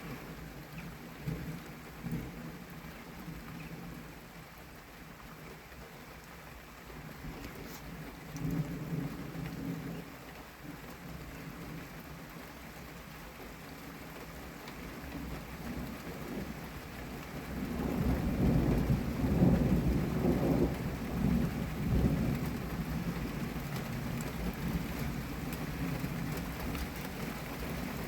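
Steady moderate rain falling, with rolling thunder: a short low rumble about a third of the way in and a longer, louder rumble in the second half.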